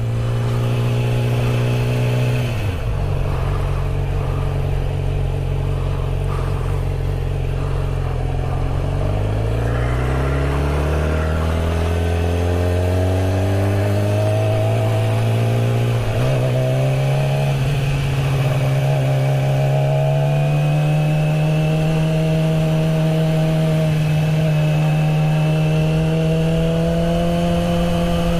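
Honda Grom's small single-cylinder engine on its stock exhaust, riding through the gears: its note drops about 2 to 3 seconds in, climbs again from about 9 seconds, dips at a gear change near 16 seconds, then settles into a steady cruise that rises slowly.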